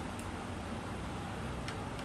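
Steady low background hiss with one faint click near the end, as of a utensil tapping a plate while eating.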